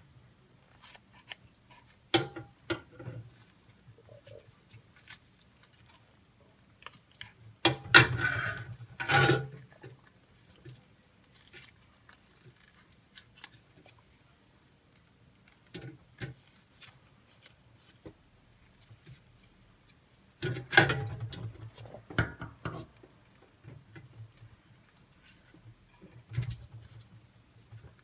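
Scissors cutting raw beef pizzle, in scattered short snips and clicks with three louder bouts of cutting and handling, about two, eight and twenty-one seconds in.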